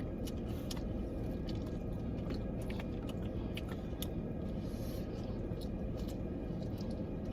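Close-up chewing and biting of crispy fried food, with small crunches and clicks scattered throughout, over a steady low rumble.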